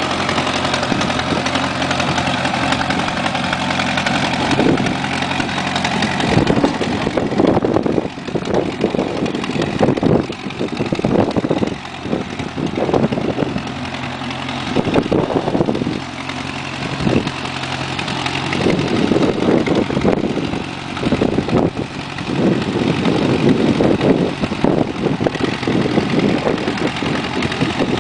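Small garden tractor engine running: a steady idle for about the first six seconds, then its sound swells and dips unevenly as it is revved or put under load.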